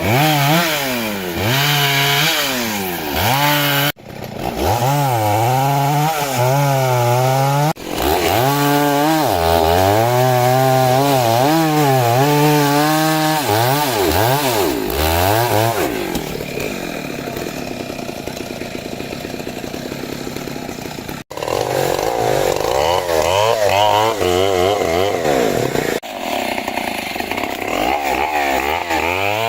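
Stihl chainsaw cutting into the thick trunk of a rain tree, its engine revving up and down over and over as the chain bites and eases off. The sound breaks off sharply a few times.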